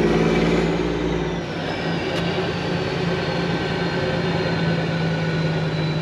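Diesel engine of a semi-truck running, heard from inside the cab. The deep low rumble drops away about a second and a half in, while a faint high whine slowly falls in pitch.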